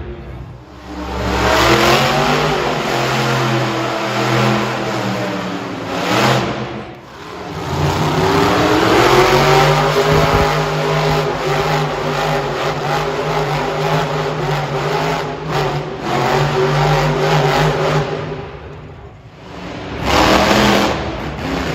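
Monster truck engine revving hard in long swells, easing off twice before climbing again.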